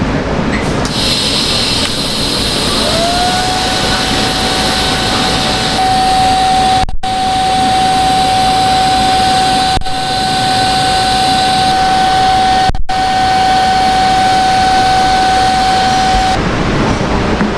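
A machine motor spins up with a short rising whine, then runs at a steady high whine over a loud hiss, and stops near the end. The sound is broken by three brief cuts.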